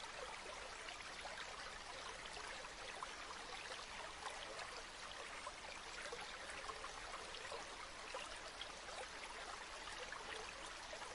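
River water flowing over stones: a steady babble flecked with many small splashes and trickles.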